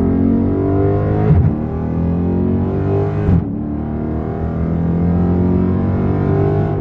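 Dodge Challenger Scat Pack's 6.4-litre HEMI V8 at full throttle, running a stock exhaust with the mid-muffler and resonator deleted. It revs up through the gears with two quick upshifts, about a second and a half in and again about three and a half seconds in, the pitch climbing after each shift.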